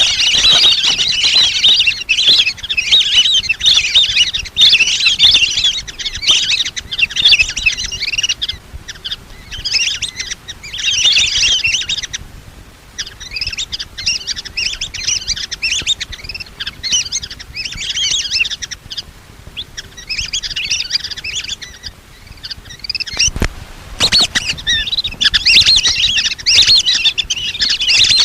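Lesser whistling ducks calling: a rapid, high, whistling chatter in phrases of a few seconds broken by short pauses. It is played as a hunter's lure call to draw the ducks in.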